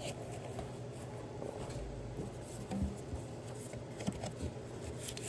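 Faint clicks and light knocks of a diesel engine's intake pipe being handled and fitted into place under the hood, over a steady low hum.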